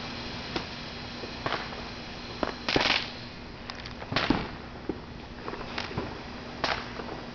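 Fireworks going off: irregular sharp bangs and pops, about eight in all, with a louder crackling burst about three seconds in and another just after four seconds.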